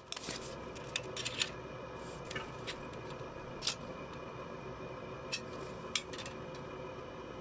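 Scattered light clicks and clinks of small objects being handled, over a steady background hum in a small room.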